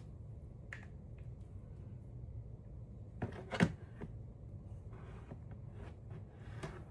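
A few light clicks and taps from handling small craft pieces while gluing, the loudest a pair of knocks about three and a half seconds in, over a low steady hum.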